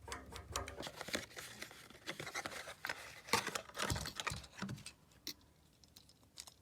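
Broken white plastic bits being picked and cleared out of a radiator valve body: irregular small clicks, scrapes and rustles that thin out after about five seconds.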